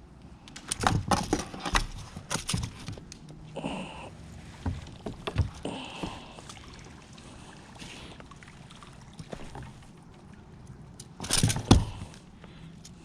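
Irregular hollow knocks on a plastic kayak with some water sloshing, and a loud burst of several knocks about eleven seconds in.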